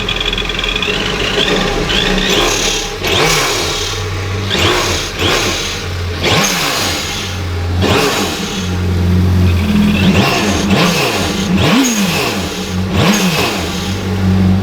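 Yamaha FX SVHO jet ski's supercharged engine, fitted with a Riva Racing air intake, blow-off valve and reflash, revved repeatedly in short blips. Its pitch rises and falls with each rev, and short rushes of noise come between the revs.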